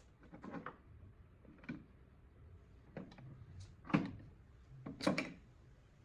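A series of short knocks and scrapes of parts being handled and set down, about six in all, the sharpest about four seconds in and a quick double knock a second later.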